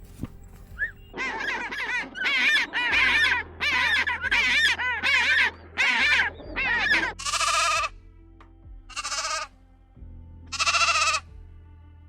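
Bleating livestock: a quick run of quavering calls, then three separate longer bleats near the end, over background music.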